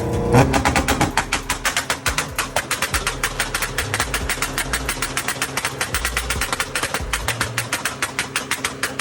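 Car engine held on a two-step launch limiter, firing a fast, even string of exhaust pops, about eight to ten a second.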